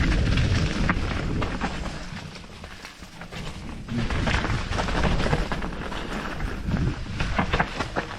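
Canyon Spectral AL6 enduro mountain bike riding down a wet trail, heard from the on-board GoPro: wind rumble on the microphone, tyre noise and rattling from the bike. The rumble eases about halfway, and sharp clacks over bumps come thick near the end.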